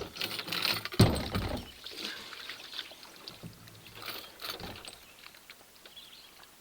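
Water splashing and trickling, with one heavy thump about a second in.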